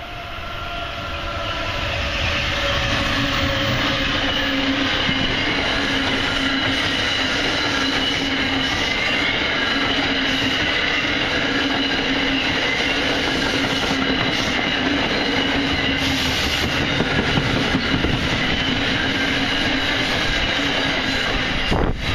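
Passenger train passing through the station at speed: a steady rush of wheels on rail with clickety-clack and a high ringing from the rails. It builds over the first two seconds, and a whine falls in pitch as the train comes in.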